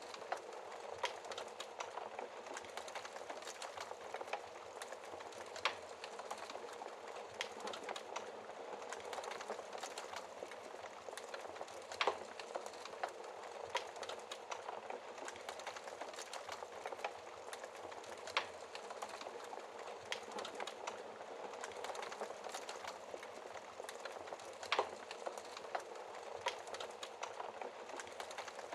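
Wood fire crackling in a fireplace: a steady hiss with frequent small irregular crackles and a few louder pops.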